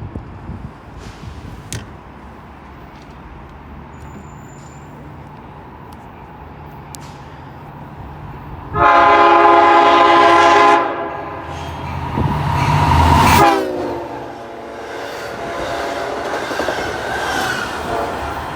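Passing train sounding its air horn: a long blast about nine seconds in and a second blast a second later whose pitch falls as the train goes by, over the rumble of the train rolling through.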